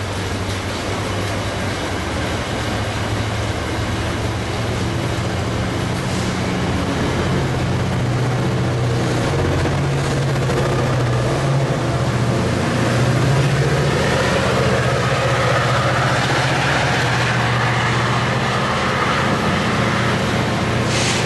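Diesel locomotive of a VRE commuter train running with a steady low drone. Its pitch steps up about a third of the way through, as the engine notches up.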